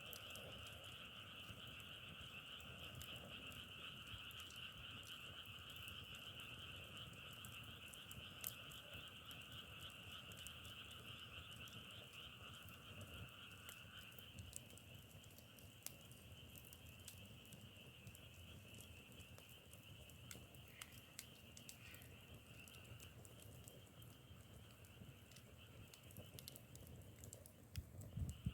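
Faint, steady chorus of frogs calling in two overlapping pitches, the lower one dying away about halfway through, with scattered faint clicks over it.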